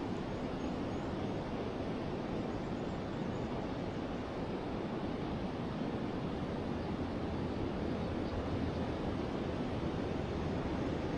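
Forest river flowing, a steady rushing of water with no change in level.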